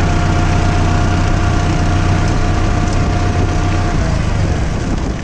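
Mahindra tractor's diesel engine idling steadily, then dying away about four seconds in as it is switched off.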